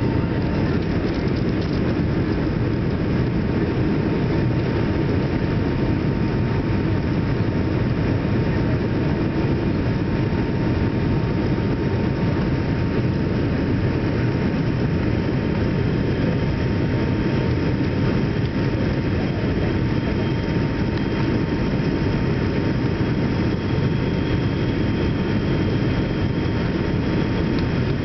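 Jet airliner's engine and airflow noise during its approach to land: a steady rushing noise with a faint, even whine running through it.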